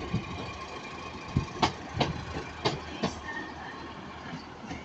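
Class 156 Sprinter diesel multiple unit pulling out, its underfloor diesel engine running steadily while the wheels give several sharp clacks over the rail joints.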